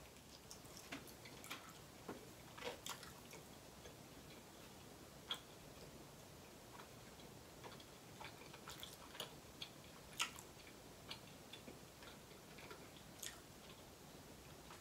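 Faint mouth sounds of chewing a sauced chicken wing: scattered soft clicks and smacks at an irregular pace over a quiet background.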